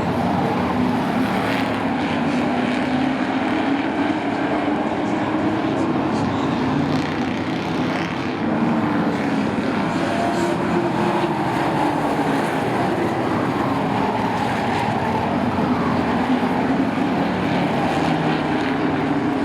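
Several racing trucks' engines running together on a short oval track, their pitches rising and falling as they pass and lap.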